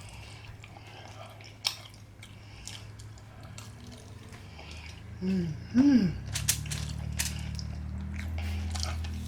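Close-up eating sounds of a seafood boil: wet chewing with a few sharp clicks of food being handled. About five and six seconds in there are two short hummed "mm" sounds, and a low steady hum runs underneath, growing louder in the second half.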